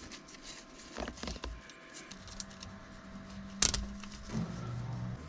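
Scattered clicks and one sharp loud clack of small parts and hardware being handled and fitted by hand, over a low steady hum that starts about two seconds in.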